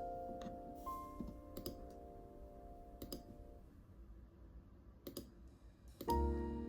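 Sparse keystrokes on a computer keyboard, a few scattered clicks, over soft piano background music whose notes fade out. About six seconds in, a new music track with a low bass begins.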